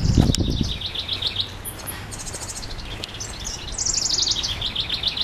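Wild songbirds singing: a run of repeated high chirps, then a rapid high trill, and near the end a fast series of notes stepping down in pitch. A brief low thud at the very start.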